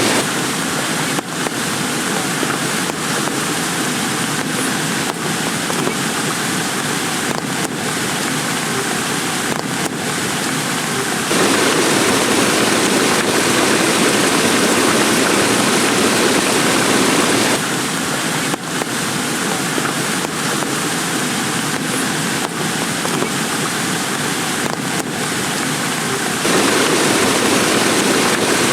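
Heavy rain falling steadily, with a few sharper drop taps; the rain noise changes character abruptly several times.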